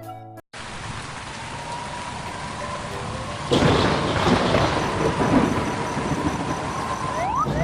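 Rain-and-thunderstorm sound effect: steady rain falling, becoming suddenly louder and heavier with a rumble about three and a half seconds in.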